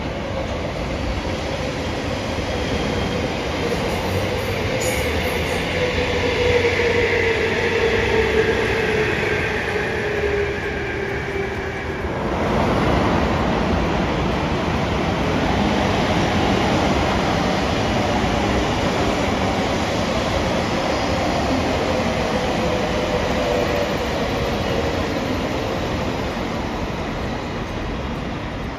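A train running at a station, with whining tones that slowly fall in pitch over several seconds. The sound changes abruptly about twelve seconds in, and another train passage with falling tones follows.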